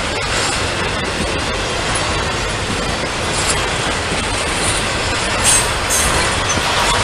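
Norfolk Southern freight train's cars rolling past, a loud steady rumble of steel wheels on rail, with brief high-pitched wheel squeals about five to six seconds in.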